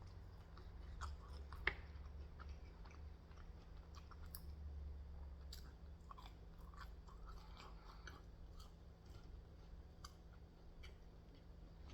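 A person chewing food, faint, with scattered small mouth clicks and one sharper click nearly two seconds in.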